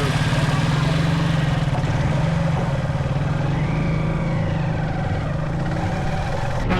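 Honda XR150L's single-cylinder engine running steadily under way, with road and wind noise.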